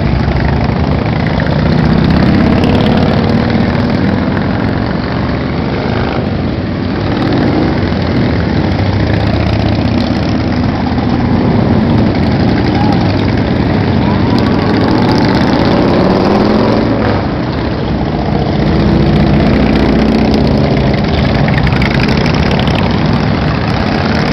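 Many motorcycle engines running together as a stream of bikes goes by, a continuous loud rumble with overlapping engine notes rising and falling as riders rev and pass.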